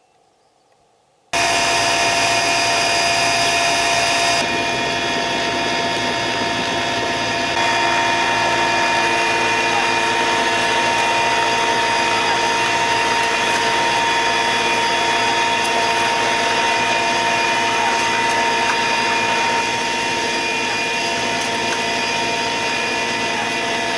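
Mi-8 helicopter's turbine engines and rotor transmission running at full power: a loud, steady whine of several held tones over a broad rush, starting abruptly about a second in.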